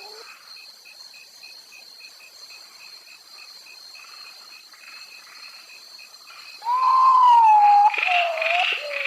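A bird giving loud, drawn-out calls that slide downward in pitch, twice near the end. Under them runs a faint, even series of short high pips, about three a second.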